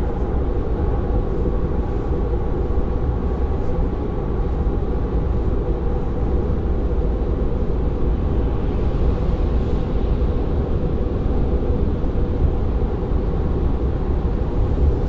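Interior cabin noise of a Tesla Model 3 cruising at about 100 km/h: a steady, low, rumbling road and wind noise with no engine sound.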